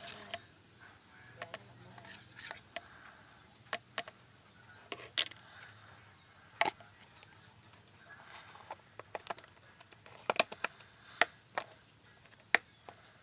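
Scattered light clicks and taps of small objects being handled, a few at a time with pauses between and more of them near the end, over a faint steady hiss.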